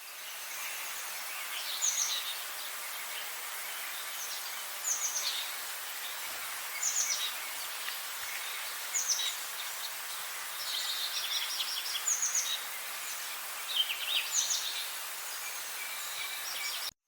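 A bird calling over and over in short, high, falling phrases about every two seconds, against a steady high outdoor hiss. The sound fades in at the start and cuts off suddenly near the end.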